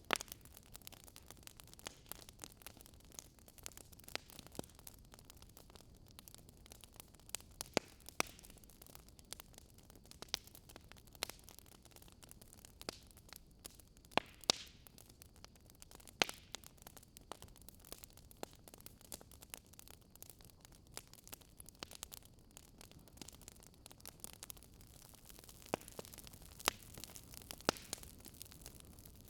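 Wood fire in a fireplace crackling: irregular sharp pops and snaps over a faint steady hiss, with a few louder pops about halfway through and again near the end.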